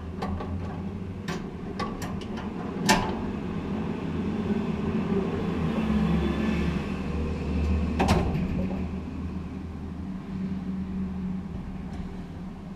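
A few sharp metallic clicks and knocks as parts are fitted and secured inside a gas dryer during a drive-motor replacement, over a steady low hum. The loudest knocks come about three seconds in and again about eight seconds in.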